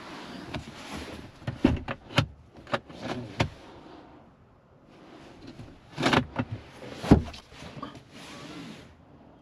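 Clicks, knocks and rustling in a car's cabin, in two bursts of a few seconds each, the loudest knock about seven seconds in.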